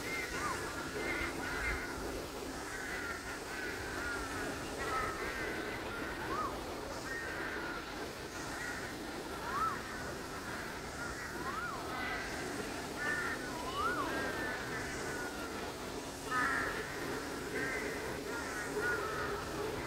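Birds calling again and again: clusters of short harsh calls, and a few times a single note that swoops up and back down, over a steady low hum.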